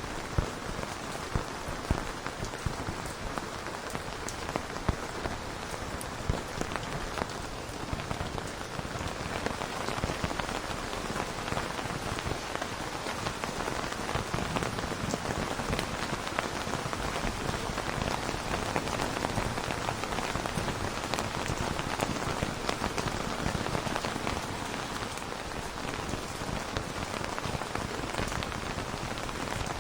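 Steady rain falling on a surface, an even hiss with sharp ticks of single drops scattered through it, more noticeable in the first several seconds.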